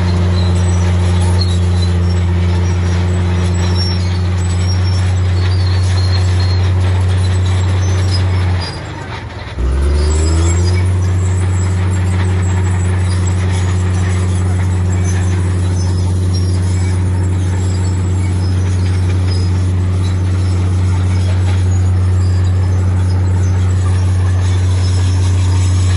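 Heavy diesel engine of earth-moving machinery running steadily under load, with a deep low hum. About nine seconds in it drops off briefly and then picks back up.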